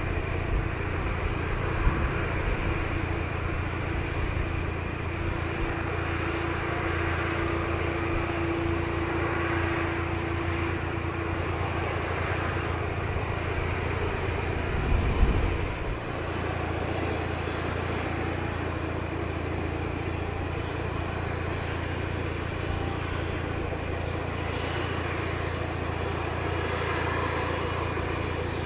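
A Boeing 737-500's CFM56-3 jet engines running steadily. After a short thump about halfway, a faint high whine joins the sound.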